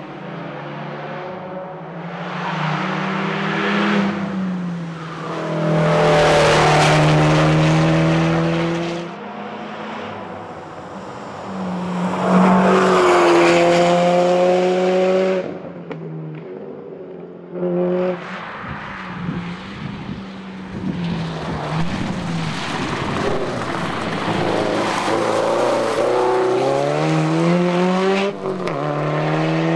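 Subaru WRX STI rally car's turbocharged flat-four engine revving hard, its pitch climbing and dropping again and again through gear changes. Two louder surges come about six and twelve seconds in.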